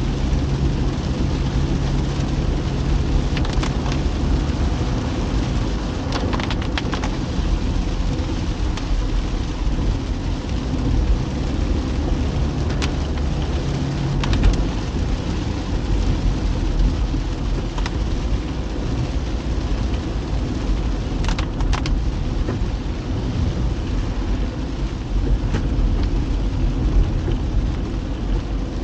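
A car driving on a wet road in rain: a steady low rumble of road and engine noise with rain hiss, and a few faint scattered ticks.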